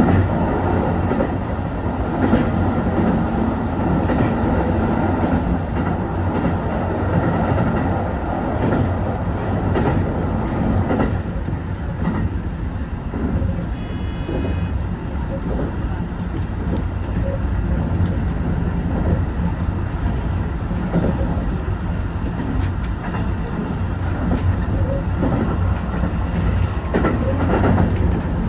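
HB-E210 series hybrid train running along the line, heard from inside at the front: a steady running rumble with the wheels clicking over rail joints now and then.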